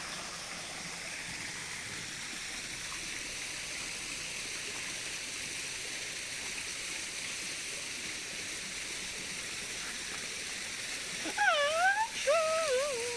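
Steady rush of running water from a small waterfall or stream. Near the end a short, loud, wavering call or voice rises over it twice.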